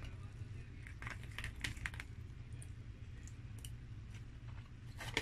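Close-miked eating sounds: the mouth clicks and smacks of chewing french fries, coming in a quick irregular cluster and then more sparsely, with one sharper click near the end.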